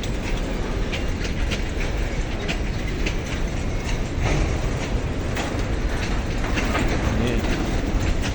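Freight train rolling past: a steady rumble of the wagons, with repeated clacks of the wheels over the rails.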